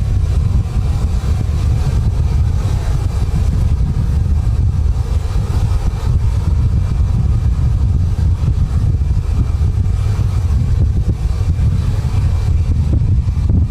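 Strong wind buffeting the microphone: a loud, steady, fluttering low rumble.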